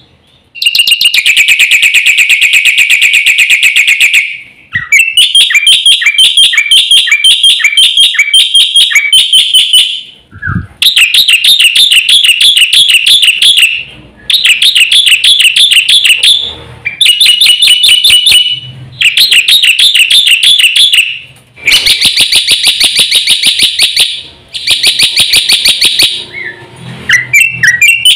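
Black-winged myna (jalak putih) singing loudly in phrases of very rapid repeated notes, many to the second, each phrase lasting two to four seconds, with short pauses between.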